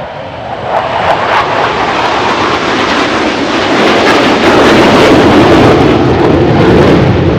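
Military jet aircraft flying overhead at an air show, the engine noise growing over the first second and then staying loud and steady.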